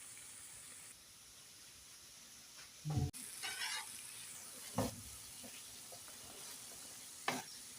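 Potato fritters frying in oil over low heat, with a steady sizzle. A utensil knocks against the pan three times.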